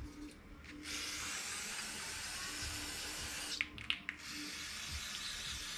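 A spray hissing onto carburetor parts during cleaning: two long bursts of about three seconds each, with a short break and a few clicks between them.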